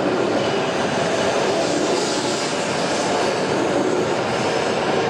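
W7 series Shinkansen electric train moving past at close range: a steady, loud rush of wheel, motor and air noise with a faint high whine.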